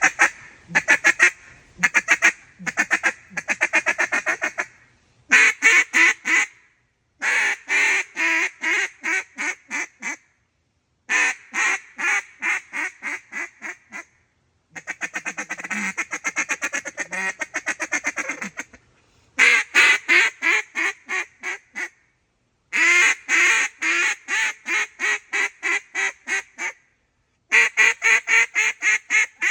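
Rolling Thunder Brute XL duck call blown in a string of quacking series: about eight runs of repeated quacks, most trailing off in loudness, with a faster run of rapid notes near the middle.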